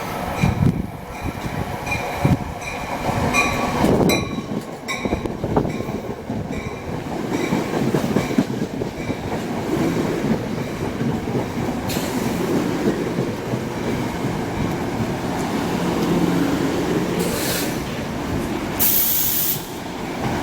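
A passenger train running past on the rails: wheels clacking over rail joints in a quick series of clicks for the first few seconds, then a steady rolling rumble, with a brief high hiss near the end.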